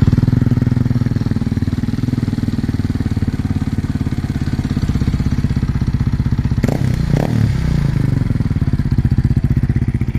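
Kawasaki KLX230's single-cylinder four-stroke engine idling through a newly fitted Norifumi full-system aftermarket exhaust, just after being started, with two quick throttle blips about seven seconds in.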